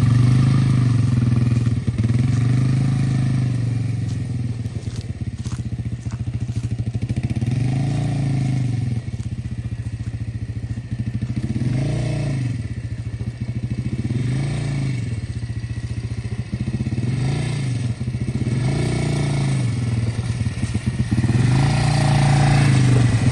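Quad bike engine running, its revs swelling up and dropping back about every two seconds as the throttle is worked.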